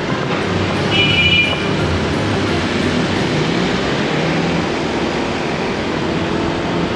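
A Honda Click 160 scooter being ridden in traffic, with steady engine and road noise rumbling throughout. A short high-pitched beep sounds about a second in.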